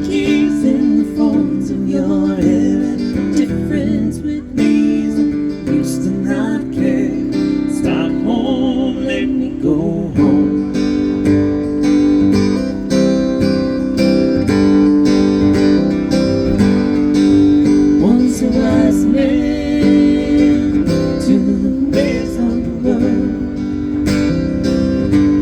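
Live acoustic guitar strumming in an instrumental passage between verses of a song, with a wavering melodic line above the chords.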